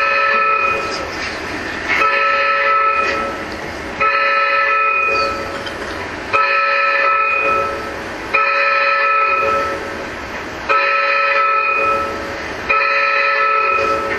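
Recorded alarm sound played by the church's audio operator: seven loud, horn-like blasts of a chord of steady tones, one about every two seconds, each dropping back after about a second.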